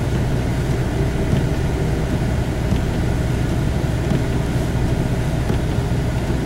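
Four-wheel-drive vehicle heard from inside the cab, driving slowly at about 12 mph: a steady low drone of engine, drivetrain and tyres. It includes a front-end noise that the driver can't account for, since the front differential and transfer case are full of oil; he wonders whether it is the tyres.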